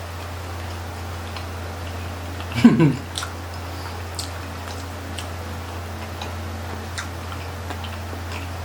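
Faint, scattered clicks of chewing over a steady low hum. About three seconds in, a short voice sound falling in pitch.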